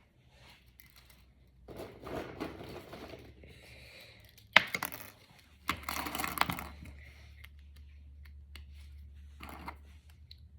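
Small plastic Brain Flakes discs clicking and clattering as they are handled and pushed together, with a sharp click about halfway through and scattered light ticks.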